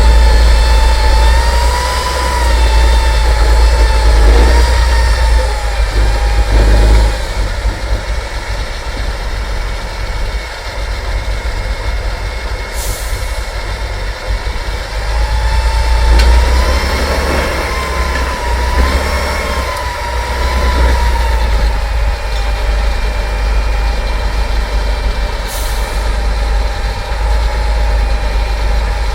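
Heavy off-road trial truck's engine running under load, its pitch rising and falling as it is worked, over a deep rumble. Two short high hisses cut in, about 13 seconds in and near the end.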